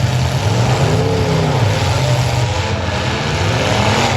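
Demolition derby car engines running, one revving up and back down about a second in, over a steady roar of several engines.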